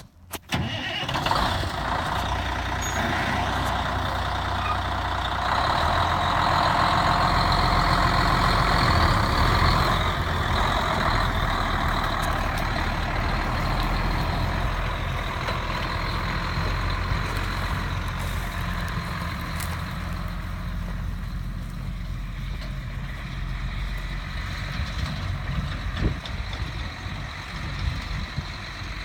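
A 1993 International 2674 grain truck's diesel engine starts about half a second in and then runs steadily. It runs louder for several seconds around the middle, then settles back down.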